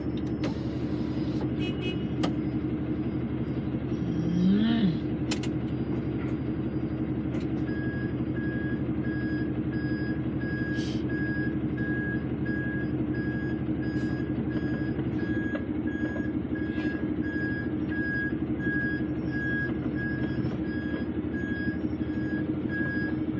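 A truck's diesel engine running steadily, heard from inside the cab. About eight seconds in, a reversing alarm starts beeping about twice a second as the lorry backs up.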